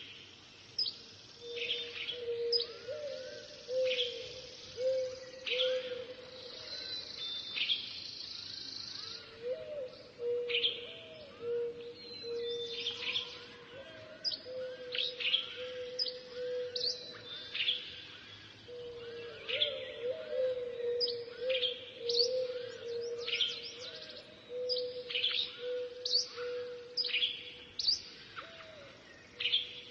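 Small birds chirping: many short, sharp, falling chirps in quick irregular succession, over a steady low tone.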